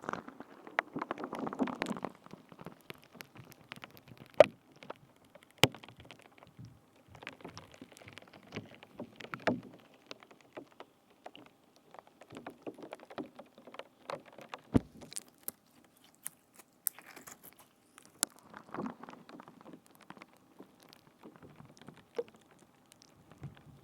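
Close-miked ASMR trigger sounds on a binaural microphone: uneven clusters of soft crackling with scattered sharp clicks.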